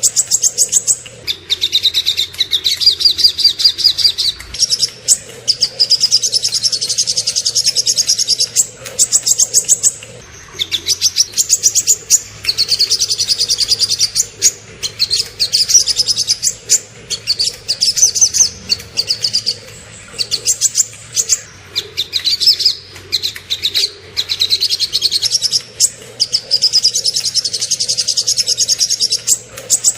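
Small songbirds singing a rapid, high-pitched song: long runs of quick trills and sharp notes several seconds at a time, broken by short pauses.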